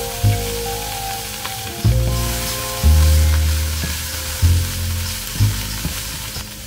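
Chopped curly kale sizzling in a hot wok, then stirred with a spatula, over background music.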